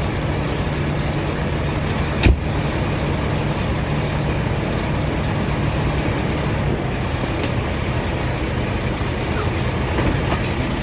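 Semi truck's diesel engine running steadily as the tractor-trailer backs up, a low rumble, with one sharp knock about two seconds in.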